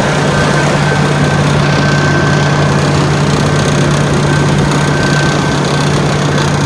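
Engine running steadily at a constant speed through a newly fitted exhaust, a low even drone with a thin high whine above it.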